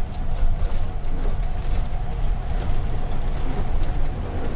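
Steady low rumble of a tour vehicle's engine and road noise, heard from inside the vehicle.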